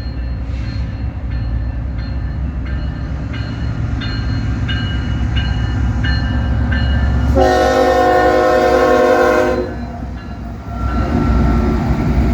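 Freight train rumbling past at a grade crossing while the crossing bell rings steadily, about three strokes every two seconds. About seven seconds in, a diesel locomotive air horn sounds one loud chord for about two and a half seconds.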